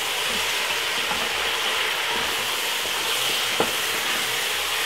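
Curry chicken pieces sizzling in a pot while being stirred with a wooden spoon: a steady frying hiss, with a single light click about three and a half seconds in.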